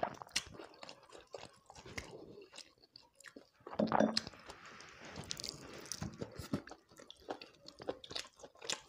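Close-up mouth sounds of a person chewing fried chicken: wet clicks and small crunches throughout, with a louder, wetter burst about four seconds in.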